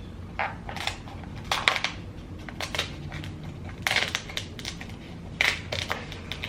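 King crab leg shell cracking and crackling as it is pried open by hand: irregular sharp cracks and snaps, several in a cluster about four seconds in.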